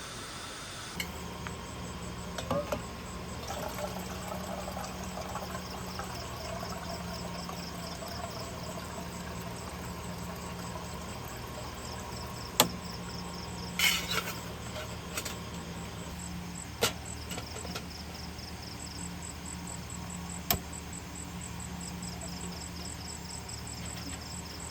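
Insects chirping in fast, even pulses, more and more clearly in the second half, over a steady low hum. A few sharp clicks and knocks break in, the loudest about halfway through and another cluster just after it.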